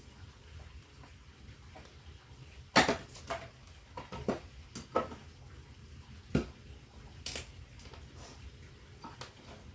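Firewood knocking and clattering: a string of sharp wooden knocks at irregular intervals, the loudest about three seconds in, with lighter clacks between.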